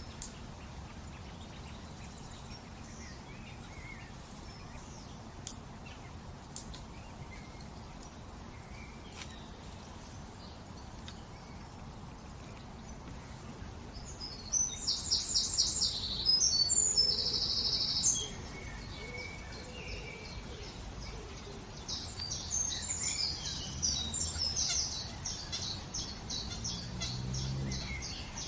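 Songbirds singing: a loud phrase of rapid high trills about halfway through, then another long run of fast high notes near the end, over a faint steady outdoor background.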